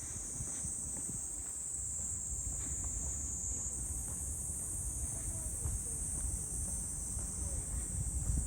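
Steady high-pitched drone of summer insects, over a continuous low rumble.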